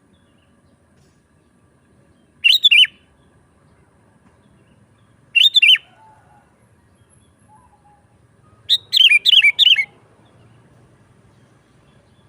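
Sooty-headed bulbul (kutilang) singing three short, bubbly phrases, spaced about three seconds apart, the last the longest.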